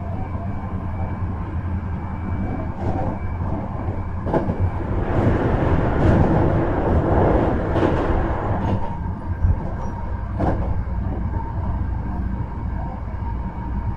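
Hankyu 1300 series electric train running between stations, heard from inside the car: a steady rumble of wheels and running gear with a faint whine, and a few sharp clicks from rail joints. The noise swells louder for a few seconds around the middle.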